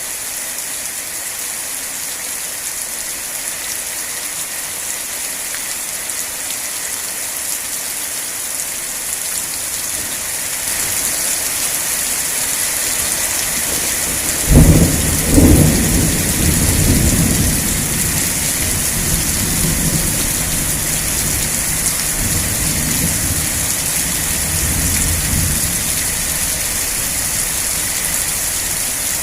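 Steady rain falling, with a thunderclap about halfway through: two sharp cracks a second apart, then a low rumble that fades over about ten seconds.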